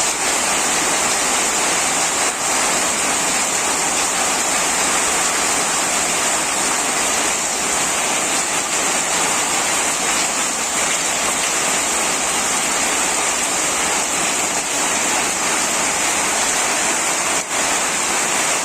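Steady heavy rain, an even loud hiss with no let-up.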